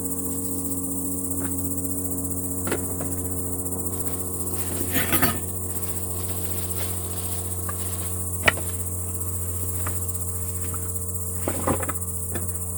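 Insects chirring steadily in a high-pitched haze, over a steady low hum. A few sharp clicks and knocks cut through, the sharpest about eight and a half seconds in.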